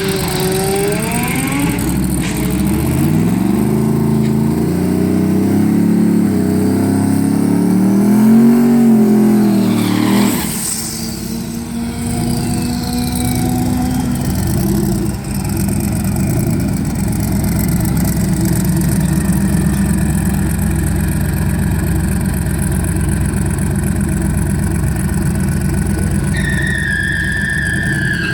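Twin-turbo LS1 5.7-litre V8 engine revving, its pitch rising and falling through the first ten seconds, then running hard and steady. A high whistle slides down in pitch near the end.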